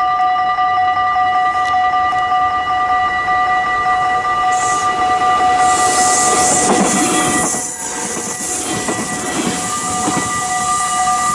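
Arriva Stadler GTW regional train passing close by at speed, its rush and wheel noise building to a peak about two-thirds of the way through and then fading, over the level-crossing alarm's steady ringing tone.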